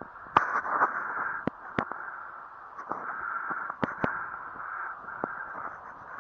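Wind gusting over the microphone as a steady, rising-and-falling rush, with about ten sharp clicks of handling scattered through it.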